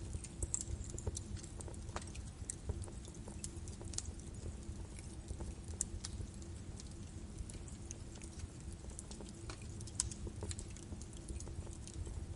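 Birch wood fire burning in a fireplace, with irregular crackles and pops over a low steady rumble of the flames.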